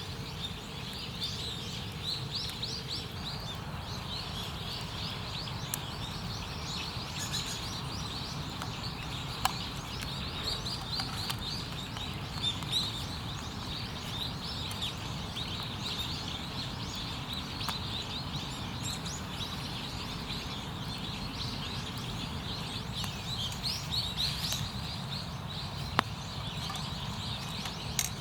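Small birds twittering and chirping continuously over a steady low background rumble, with a few sharp clicks along the way.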